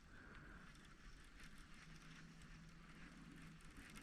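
Near silence: faint outdoor background, with a faint steady low hum for a second or two in the middle.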